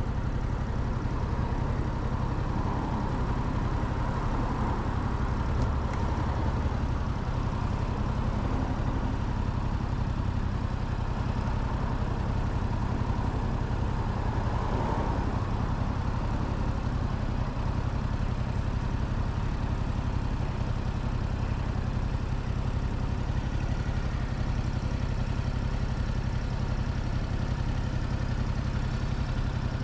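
Motorcycle engine running steadily, heard from the rider's position; the sound stays even throughout, with no revving or sudden events.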